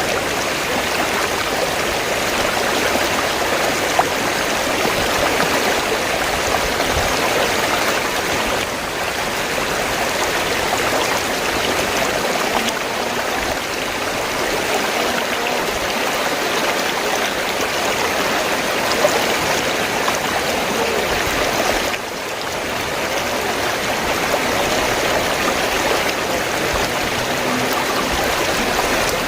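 River water flowing steadily: an even, unbroken rush of running water, with a brief drop in level about 22 seconds in.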